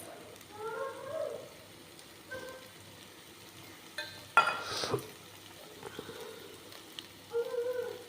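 Boiled potatoes being stirred into spiced masala in a hot pan: a spoon scraping and knocking against the pan over a faint sizzle. There are a few irregular scrapes, the loudest a sharp one about four and a half seconds in.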